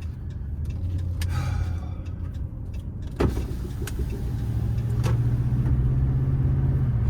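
2010 Ram 1500's 5.7 L Hemi V8 running under way, heard from inside the cab, with a sharp click about three seconds in; the drone grows louder in the second half. The engine is misfiring on cylinder 5 (code P0305) and has dropped into limp home mode, running rough.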